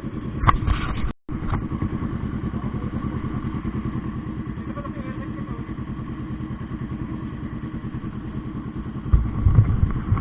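Motorcycle engine running steadily with a regular pulsing rumble. The audio cuts out completely for a moment about a second in, and there is heavier low buffeting near the end.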